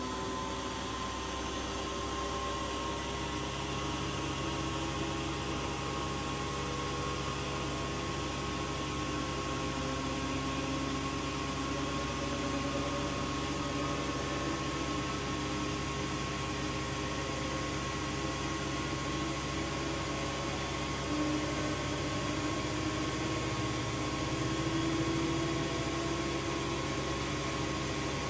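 Washing machine running, a steady motor hum and whine over a rush of noise; a deeper hum joins about three seconds in and the sound swells slightly near the end.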